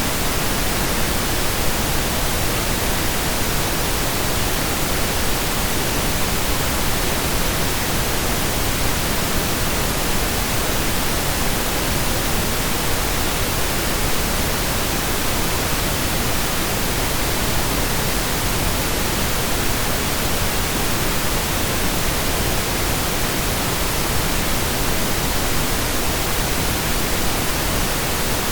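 Steady synthesised pink noise: an even, unchanging hiss spread across the whole range, with equal energy per octave, like steady rain or a waterfall.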